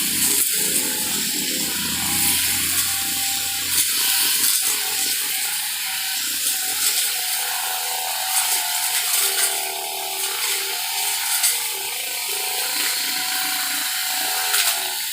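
A machine running steadily, mostly a bright, high-pitched hiss with a few faint whining tones.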